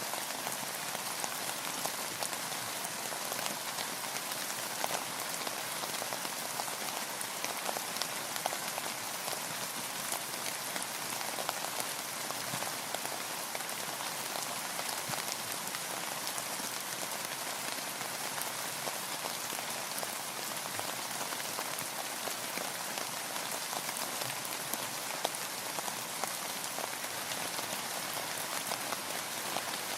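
Steady rain falling: an even hiss with many small separate drop hits ticking through it, with no let-up.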